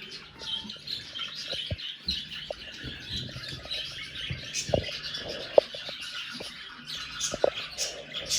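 Budgerigars chattering and warbling, a continuous run of chirps and squawks, with a few short sharp clicks, the loudest a little after the middle.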